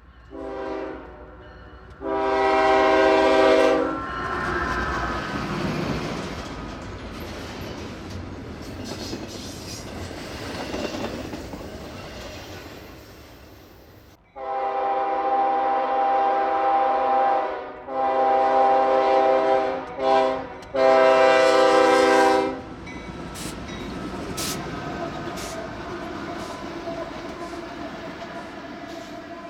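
Diesel locomotive air horn blowing a short and a long blast, then after about ten seconds of rumble the grade-crossing pattern of two long, one short, one long. Under and after it, the rumble and wheel clatter of the passing train.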